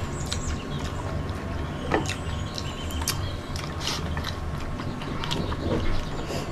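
Close-up eating sounds: chewing with sharp mouth clicks and smacks about once a second, over a steady low hum.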